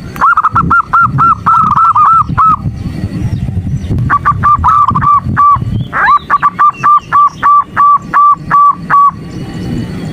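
Female zebra dove (perkutut) calling to males: three runs of short, evenly repeated notes, about four to five a second, with short gaps between the runs and the last run the longest.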